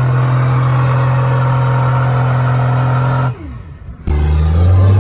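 Truck engine held at steady high revs, then the revs fall away a little over three seconds in. After a brief dip, an engine comes back in and its revs climb near the end.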